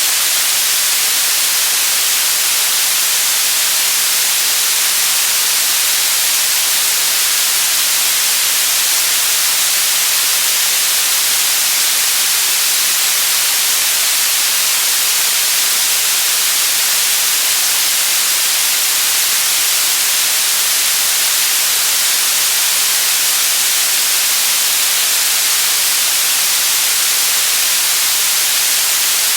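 Steady white noise: an even, unchanging hiss at a constant loud level, strongest in the high range.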